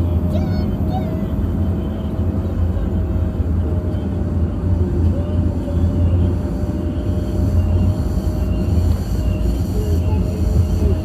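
Steady low rumble of a vehicle on the move, engine and road noise, with a constant faint hum over it.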